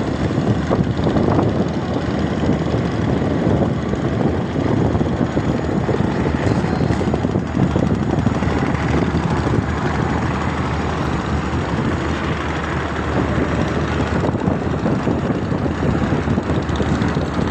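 A steady engine running throughout, a dense low rumble with no clear changes.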